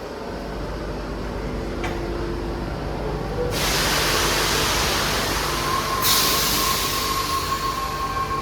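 Sydney electric train in the station, a low rumble with a loud hiss that starts about three and a half seconds in and shifts about six seconds in, joined by a steady whine.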